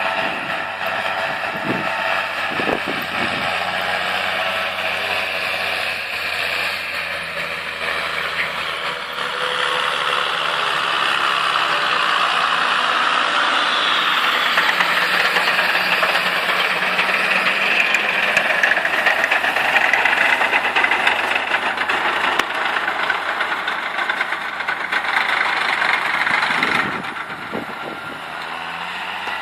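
Tractor engine running steadily while raking a field, with a rattly, noisy mechanical sound over the engine note. It grows louder about a third of the way in and drops off near the end.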